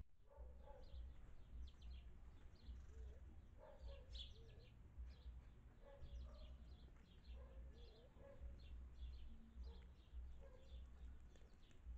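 Small birds chirping: many short, high chirps repeating throughout, faint, over a steady low hum.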